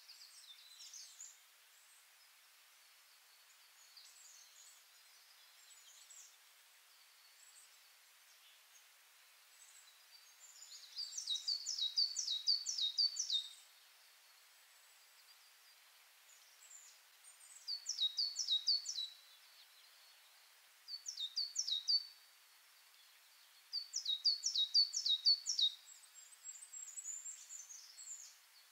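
Birdsong: a small bird singing quick runs of high, down-slurred notes, each run one to two seconds long, four or five times over a faint steady hiss.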